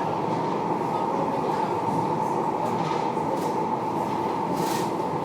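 RET tram running along the track, heard from inside the car: a steady rumble of wheels on rail with a constant whine, and a short hiss near the end.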